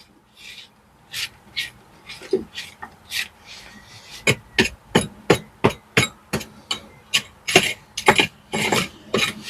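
Hammer blows on masonry, a few spaced strikes and then a steady run of about three sharp knocks a second, with some gritty scraping as material breaks away: chipping out old render and stone by hand.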